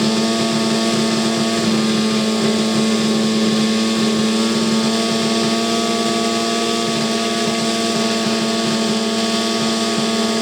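MVVS two-cylinder inline two-stroke model aircraft engine with reduction gear, driving a four-blade propeller on an RC P-51D Mustang, running at a steady high speed.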